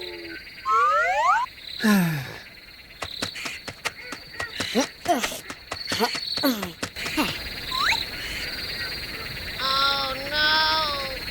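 A string of short sliding whistle-like tones, some rising and some falling, mixed with sharp clicks, and a warbling call about ten seconds in, over a steady high chirring.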